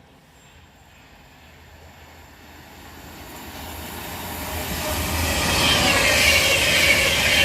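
Avanti West Coast Class 390 Pendolino electric train approaching at speed: a rush of wheel and rail noise that swells steadily from faint to loud over the last few seconds.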